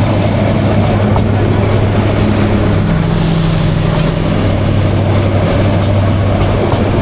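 Intercity train passing close by: a steady, loud rumble with a low diesel locomotive engine drone.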